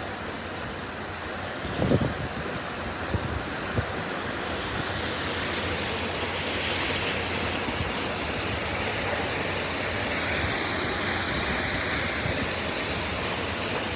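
Water gushing from a sheared-off fire hydrant: a steady, loud rushing spray at full pressure, with a few short knocks about two to four seconds in.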